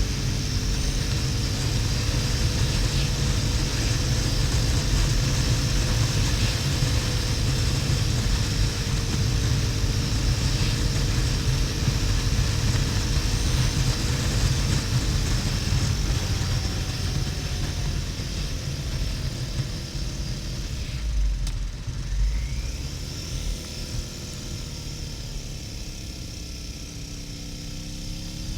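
Harley-Davidson XL1200N Nightster's air-cooled V-twin running at road speed, with heavy wind rumble on the helmet or bike-mounted camera. Over the last several seconds the engine note drops and the sound gets quieter as the bike slows.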